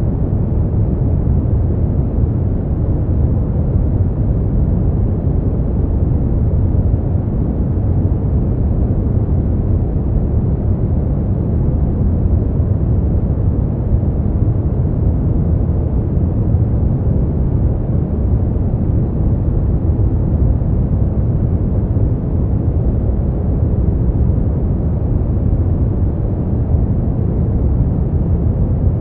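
Steady brown noise: a deep, even rumbling hiss, strongest in the low bass and fading off toward the highs, with no change.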